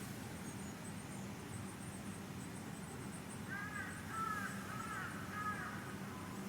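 Crows cawing, four or five caws in quick succession in the second half, over faint high chirping of small birds.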